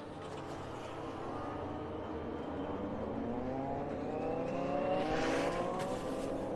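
Racing motorcycle engines accelerating on track, their pitch rising as they pull through the gears. The sound swells to its loudest about five seconds in, with a brief hiss, as the bikes come closest.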